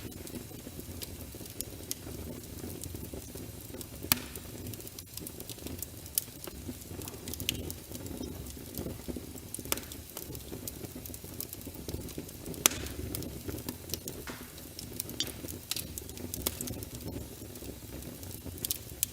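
Wood logs burning in a fireplace: a steady low rumble of flames with irregular crackles and sharp pops, one louder pop about two-thirds of the way through.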